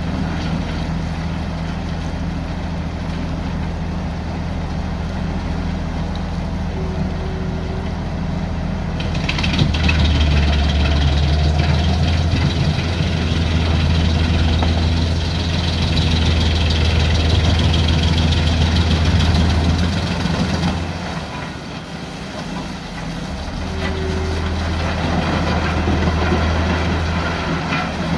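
Large wood chipper's engine running steadily. About nine seconds in it gets louder, with a rush of chipping noise as wood is fed through the rotor. It eases off a little past twenty seconds and picks up again a few seconds later.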